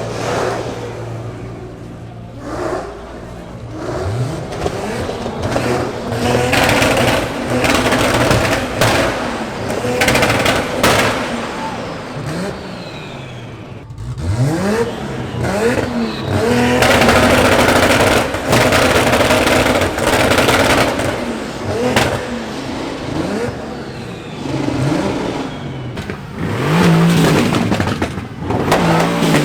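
Car engines revving hard in a rev battle, rev after rev rising in pitch and dropping back, with crowd voices behind.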